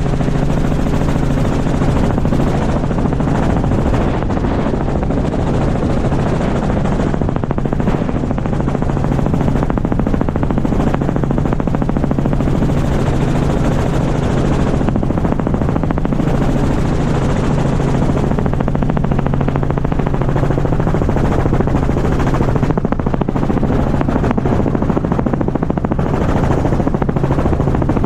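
Helicopter running steadily, its rotor blades giving a fast, even chop over a constant drone.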